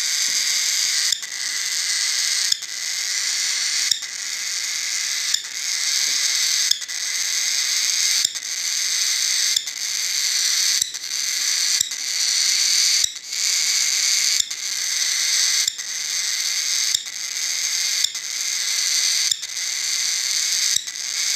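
Cockatiel chirping in a long run of repeated, high-pitched phrases, each about a second and a half long and separated by a brief break.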